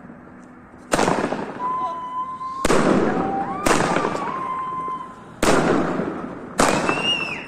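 Fireworks going off: five loud bangs, one every one to two seconds, each fading away over about a second.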